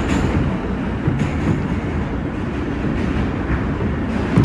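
New York City subway car heard from inside while running: steady rumble and rattle of the wheels on the track, with a short knock near the end.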